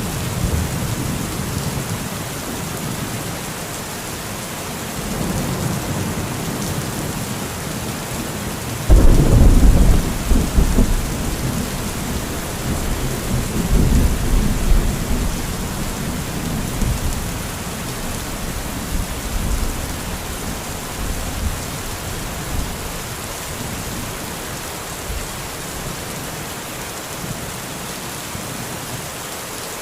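Steady heavy rain falling in a thunderstorm, with a loud clap of thunder about nine seconds in that rolls on for several seconds, and fainter rumbles of thunder before and after it.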